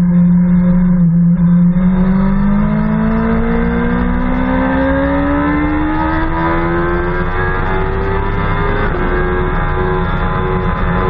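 BMW S1000RR's inline-four engine under load: holding a steady note through a corner, then rising in pitch as the bike accelerates hard, with one upshift about nine seconds in before it keeps pulling at high revs.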